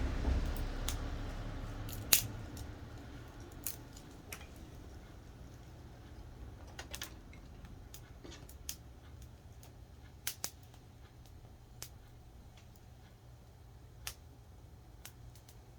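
Wood campfire crackling, with about ten sharp pops at uneven spacing. A passing vehicle's low rumble fades out over the first couple of seconds.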